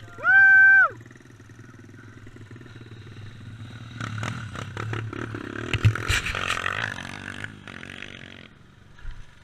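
Dirt bike engine running. About four seconds in it grows louder, with knocks and clatter, for a few seconds. Just at the start there is a short, loud, high-pitched call held for about half a second.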